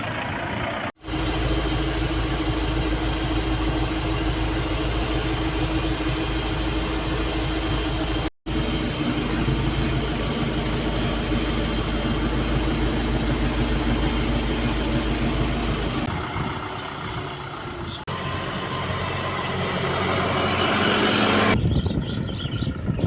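Turbocharged Quanchai diesel engine of a tractor running steadily, in several joined takes with two brief dropouts, about one second and about eight seconds in. Toward the end it grows louder and brighter for a few seconds.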